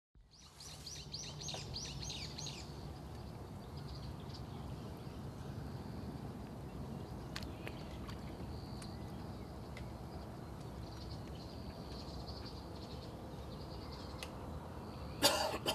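Outdoor ambience with birds chirping in quick series, loudest in the first couple of seconds and then on and off, over a faint steady low background. A short, loud noise comes near the end.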